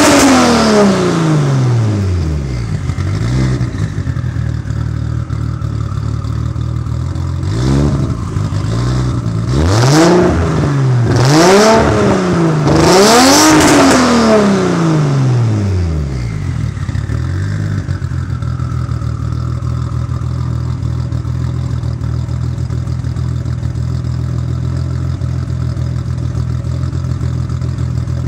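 Single-turbo 1997 Toyota Supra's 2JZ-GTE inline-six being free-revved: the revs fall off at the start, rise again in a series of about four quick blips in the middle, then settle to a steady idle.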